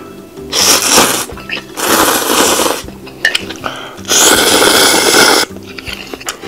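A person slurping instant ramen noodles, three long loud slurps, the last near the end the longest, over quiet background music.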